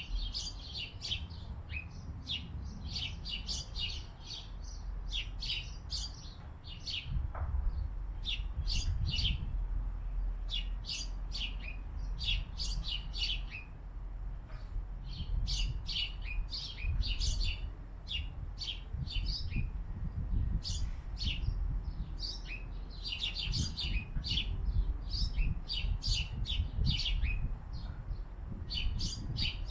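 Small birds chirping: a continuous stream of short, high chirps from several birds, over a low rumble.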